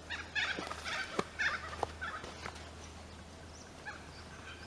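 Birds calling: a burst of harsh, chattering calls in the first two and a half seconds, then a few scattered calls.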